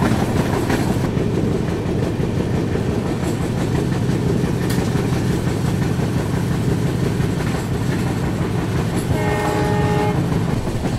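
Double-decker express train running at about 40 km/h: a steady rumble of wheels on the rails, with a train horn sounding once for about a second near the end.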